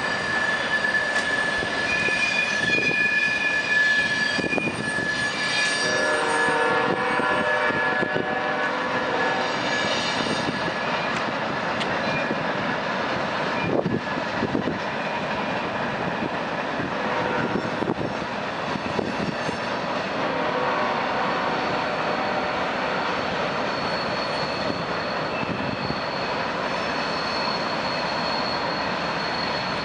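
Train passing close by: a steady grinding roar of wheels on the rails, with high-pitched squeals and whistling tones that come and go. One high squeal holds through the last few seconds.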